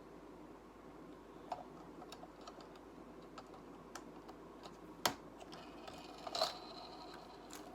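Small plastic Lego pieces clicking and tapping as they are handled and snapped onto the carriage. There are scattered light clicks, with a few sharper snaps, the loudest about five seconds in and another short cluster about a second later.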